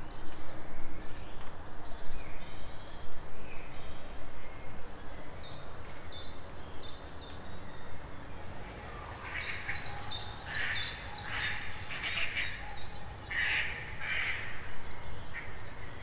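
Wild forest birds calling in a spring woodland. Short, thin high chirps come around the middle, then from about halfway a run of loud, harsh calls repeats several times, over a low steady rumble.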